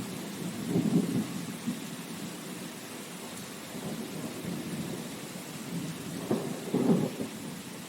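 Steady rain falling, a continuous hiss, with low rumbles swelling up about a second in and again near the end.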